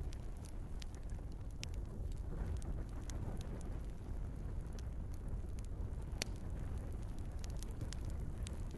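Wood fire burning in a fireplace: a steady low rumble of flames with scattered sharp crackles and pops from the logs, one louder pop about six seconds in.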